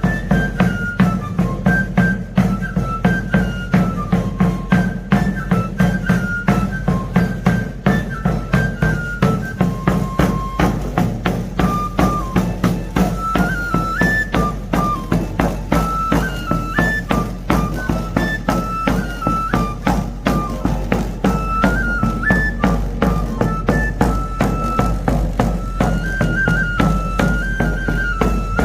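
A three-hole pipe and tabor played together by one tamborilero: a shrill pipe melody stepping between a few high notes over fast, steady strokes on the tabor drum.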